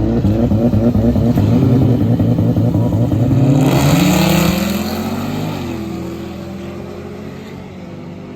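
Drag car engine at full throttle, its pitch climbing as it accelerates, with a loud rush about four seconds in. After that the engine sound falls away steadily over the last few seconds.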